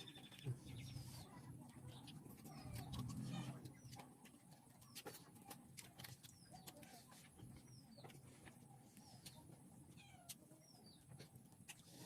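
Faint bird chirps, short falling notes repeated every second or so, over quiet background with scattered small clicks.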